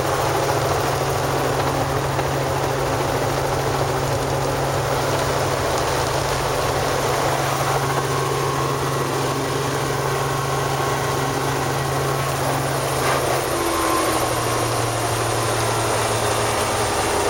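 Helicopter running with a steady low drone and rushing noise, its hum dropping slightly in pitch about fourteen seconds in.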